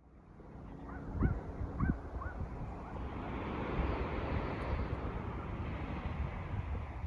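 Wind buffeting the microphone over the wash of sea water, with a few short rising bird chirps in the first couple of seconds.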